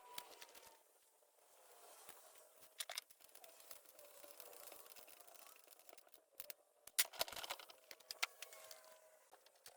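Faint scattered clicks and taps, with a louder cluster of them about seven seconds in.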